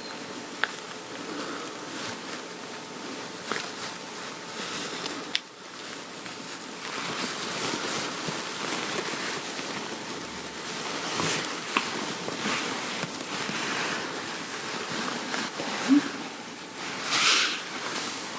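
Clothing fabric rustling and rubbing as garments are handled and adjusted on the wearer, with occasional small clicks and a louder brush of fabric near the end.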